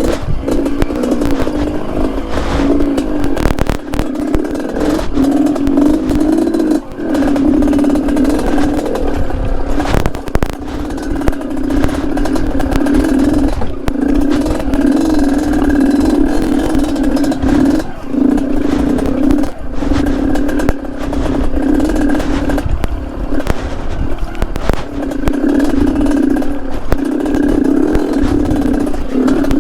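Two-stroke Yamaha RX-King engine in a Yamaha DT trail bike running at part throttle over a rocky trail. Its note holds fairly steady, with short dips several times as the throttle is eased, over continual clatter from the bike and stones.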